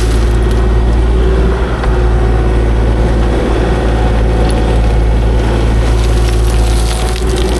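Kubota KX040-4 mini excavator's diesel engine running steadily, with a deep constant rumble and a steady hum above it.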